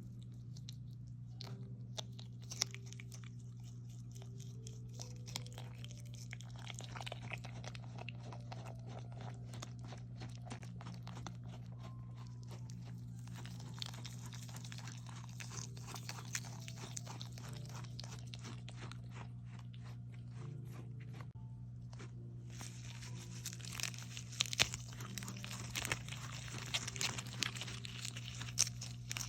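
A capybara chewing crunchy snacks: a rapid, irregular crackle of bites and grinding teeth, busiest in two spells near the middle and toward the end, over a steady low hum.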